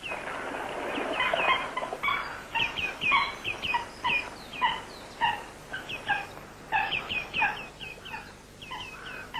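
Birds calling: a rapid series of short, chirping calls in clusters over a steady hiss, thinning out near the end.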